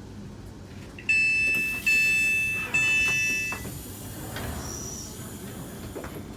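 Class 350 electric train's door warning sounding: three loud, high electronic beeps back to back, each under a second long, followed by the quieter noise of the sliding door opening.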